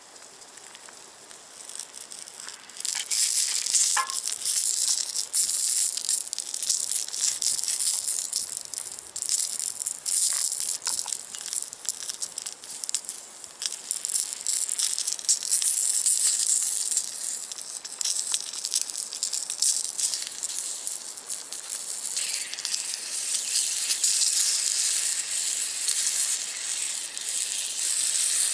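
Food sizzling and spattering in a hot cast-iron skillet over a wood-fired box stove: a dense hiss full of fine crackles that turns loud about three seconds in. A steadier hiss joins it in the last several seconds.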